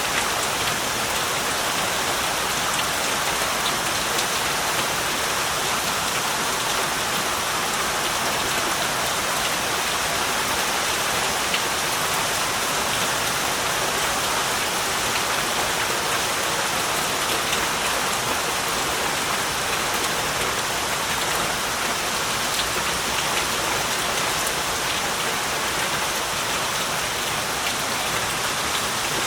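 Heavy rain falling steadily, a dense even hiss of rain on surfaces with scattered individual drops.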